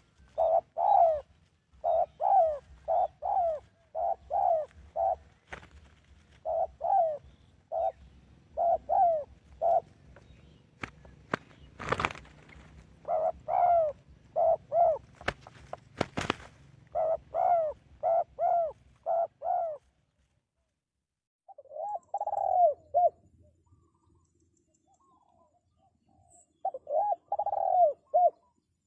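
Spotted dove cooing: phrases of short, repeated coo notes with brief pauses between them. Two sharp clicks come about midway, and the cooing stops for a moment before two shorter phrases near the end.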